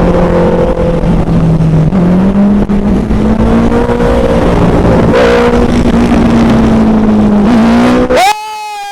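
Motorcycle engine running steadily under way, its pitch stepping up slightly about two seconds in. Near the end the sound drops suddenly in level and leaves a falling whine.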